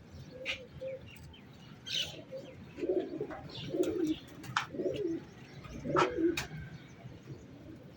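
Pigeons cooing, a run of low coos about a second apart, mixed with short sharp high chirps.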